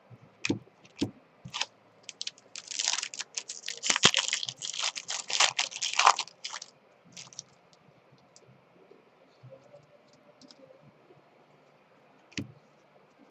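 A trading card pack wrapper crinkling and crackling as it is torn open, preceded by a few sharp clicks and followed by faint ticks of cards being handled.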